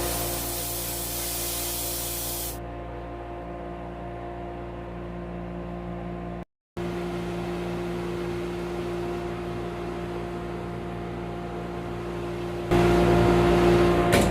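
A hiss of spray for about two and a half seconds over a steady hum, which drops out for a moment about halfway through and comes back louder, with more hissing, near the end.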